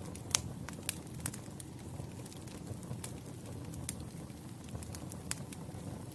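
Wood campfire burning: a steady low rumble of flames with sharp, irregular crackles and pops of burning logs, the loudest pop about a third of a second in.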